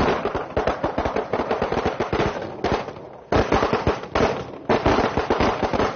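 A string of Chinese firecrackers going off in a rapid, irregular crackle of many sharp pops. The pops thin briefly about three seconds in, then pick up again.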